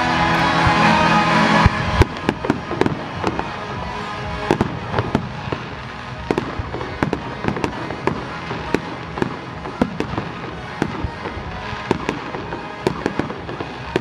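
Fireworks display: aerial shells bursting in a rapid, irregular run of sharp bangs and pops, two or three a second, with crackle between them. Music plays for the first couple of seconds and cuts off suddenly just before the bangs take over.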